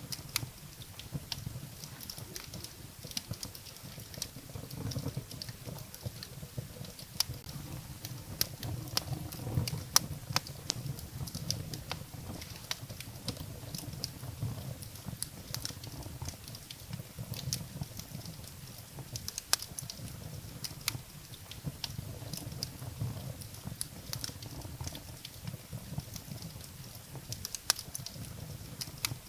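Wood fire burning in a fireplace: irregular sharp crackles and pops of burning firewood over a low, soft rumble of the flames.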